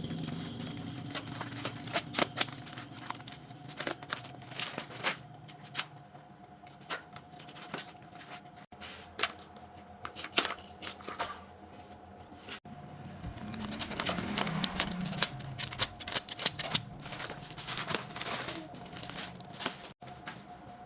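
Irregular sharp clicks and light knocks, like small parts being handled, over a faint steady hum. The sound cuts off abruptly three times.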